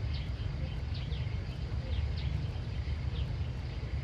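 Outdoor country ambience: a steady low rumble under repeated short, high, falling chirps, about two a second.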